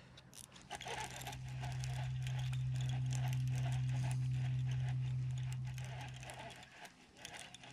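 Fishing reel being cranked during a retrieve, a run of small rattling clicks, with a steady low hum that swells up and fades away over a few seconds.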